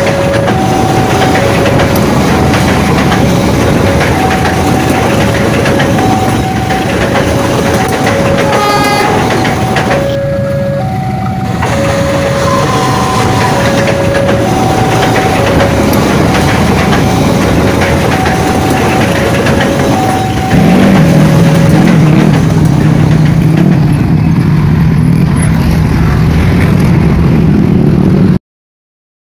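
Passenger train coaches rolling past a railway level crossing while the crossing's warning alarm sounds in two alternating tones, about one beep a second. About 21 seconds in, a steady low hum takes over, and the sound cuts off just before the end.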